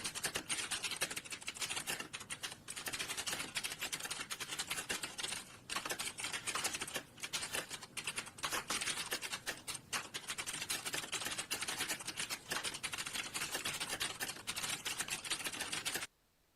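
Fast, continuous typing on a computer keyboard: a dense patter of key clicks with a few brief pauses, stopping abruptly near the end.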